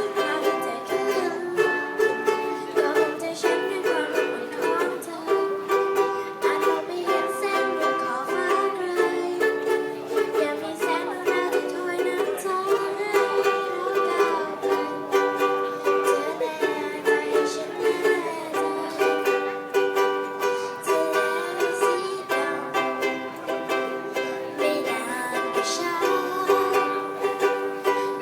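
Ukulele playing an instrumental passage, plucked notes and chords in a steady rhythm.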